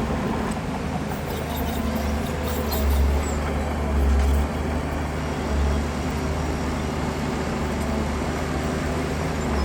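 Heavy diesel earthmoving machinery running with a steady deep rumble, swelling in a few short surges of engine load around the middle.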